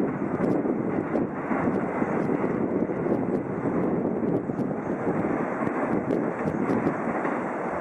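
Shinkansen train moving along the platform: a steady rushing noise of wheels and air, with faint scattered ticks.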